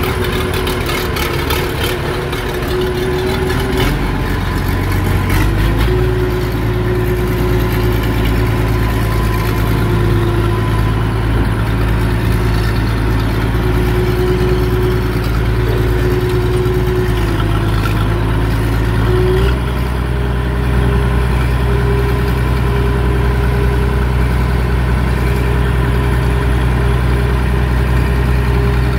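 Oliver 770 tractor engine running steadily. Its note changes about five seconds in and again near twenty seconds, as the throttle or load shifts.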